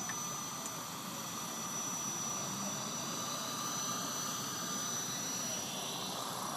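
Electric motor and rotor of a Walkera EC135 four-channel RC helicopter running: a steady high whine over an even hiss.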